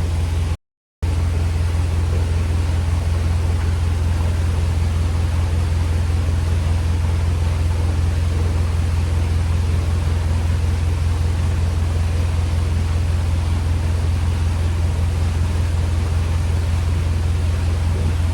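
Canal boat's engine running steadily under way: a deep, even hum with a broad rush of water and air over it. The sound drops out completely for under half a second near the start.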